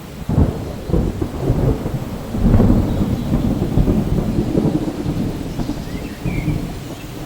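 Thunder rumbling in rolling waves over steady rain, loudest about two and a half seconds in.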